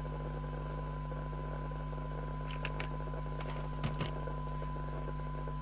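FM CB receiver's audio output during a SINAD sensitivity test: a steady 1 kHz test tone sitting in hiss, with a steady mains hum beneath it. The signal is near the receiver's weak-signal threshold of about 12 dB SINAD. A few light clicks come between about two and a half and four seconds in.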